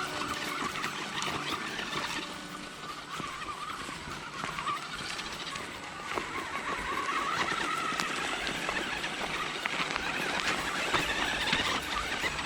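Radio-controlled car's small electric motor whining, its pitch falling and rising with the throttle, over rushing stream water and scattered clicks.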